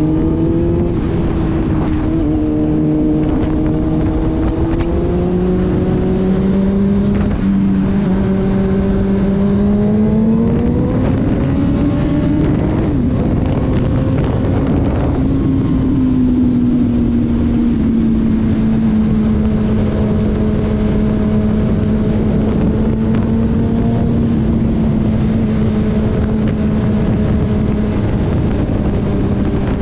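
Car driving at highway speed: a steady rumble of road and wind noise under an engine hum that climbs in pitch for several seconds, then drops back and holds steady.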